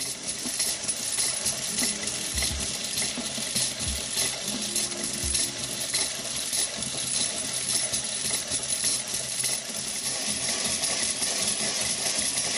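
Stirlingkit DM-121 metal turbofan engine model running under its own motor: a steady, fine metallic rattling of small gears and spinning parts.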